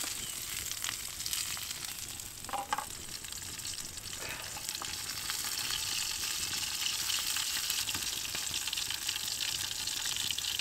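Scarlet elf cup mushrooms frying in a hot pan: a steady sizzle with a few faint crackles.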